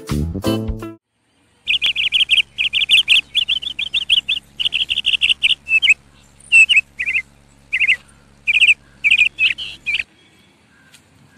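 Small birds chirping in quick, repeated phrases of short notes, over a faint steady low hum. A short piano music jingle ends about a second in, and the chirping stops near the end.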